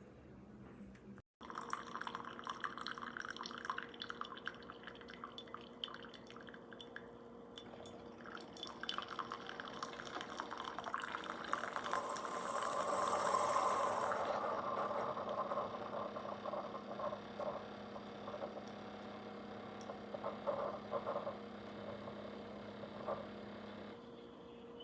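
Keurig single-serve pod coffee maker brewing: a steady machine hum while coffee streams and drips into a cup, loudest around the middle.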